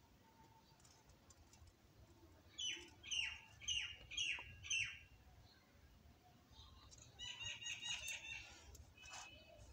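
A bird calling faintly in the background: five falling chirps about half a second apart, then, about seven seconds in, a quicker run of short chirps.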